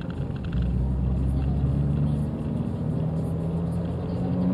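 Abarth 595's 1.4-litre turbocharged four-cylinder engine running as the car drives along, heard from inside the cabin with road rumble. The engine note holds steady and rises slightly near the end.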